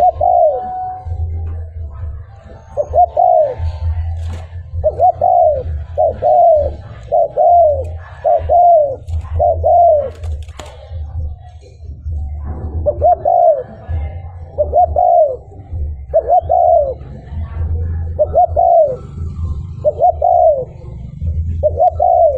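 Spotted dove (cu gáy) cooing over and over, a string of arched coos about one a second, with a short break about halfway through. A low hum runs underneath.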